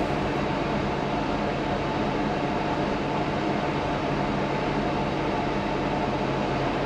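Isuzu NPS 75/155 4x4 truck driving along, its turbo-diesel engine running at a steady speed under a continuous rush of road and tyre noise.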